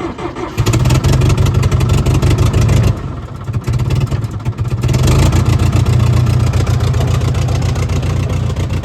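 International 125 crawler loader's engine just fired up and running loud, easing off about three seconds in and picking up again about two seconds later.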